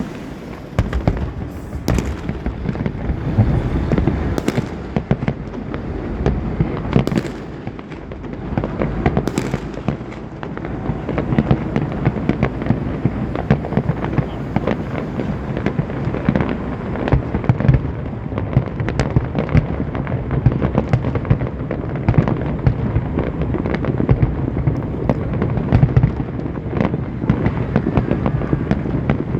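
Fireworks display going off continuously: a dense stream of booming shell bursts and crackle, with a few sharper cracks in the first ten seconds.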